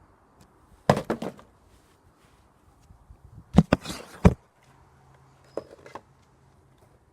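Vacuum cleaner pole striking a cardboard box: a quick flurry of blows about a second in, two hard hits a little over half a second apart around the middle, and a few lighter knocks near the end.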